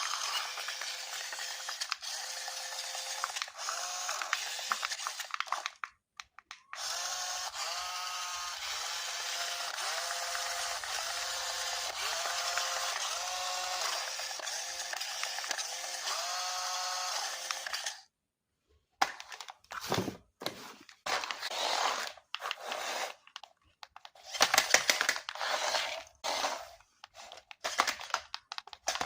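Small electric motor of a battery-operated RC toy whirring, its pitch repeatedly rising and falling as it speeds up and slows. It stops about two-thirds of the way in, and irregular short handling noises follow.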